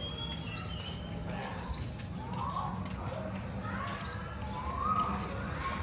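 Bird calling over and over: short high notes sweeping upward, about one a second, with lower rising notes in between, over a low steady background hum.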